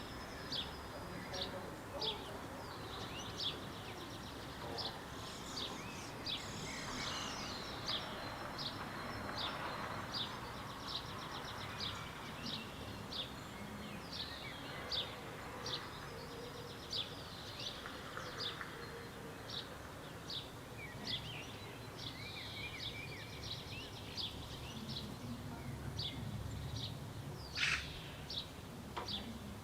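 A small bird repeating a short high chirp roughly every two-thirds of a second, over steady outdoor background noise, with one louder, sharper call near the end.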